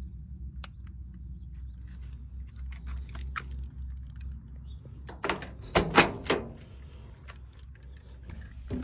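Keys jangling and clicking as they are handled, likely the ignition key going in for a cold start of a 1972 Ford Bronco. A cluster of louder clinks comes about five to six seconds in, over a low steady rumble, and a louder, rougher sound begins just before the end.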